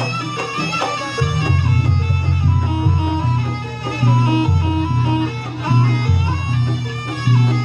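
Live jaranan accompaniment music: a wind-instrument melody stepping from note to note over a deep bass line that changes pitch every second or so.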